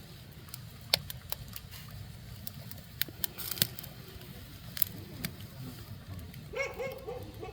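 Oak and pine firewood burning under a cast-iron cauldron: irregular sharp pops and snaps over a steady low rumble, with the fire burning hot.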